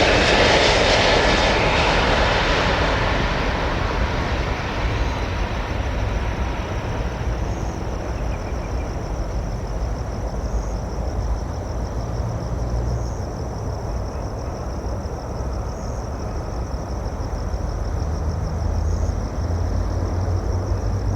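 Boeing 767 freighter's jet engines passing loudly, then fading over a few seconds into a steady low rumble as it rolls out after landing; the rumble swells again near the end. A steady high-pitched drone pulses about every two and a half seconds throughout.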